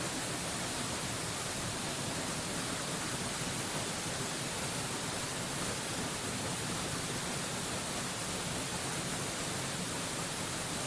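Mountain waterfall rushing: a steady, even hiss of falling water that never changes.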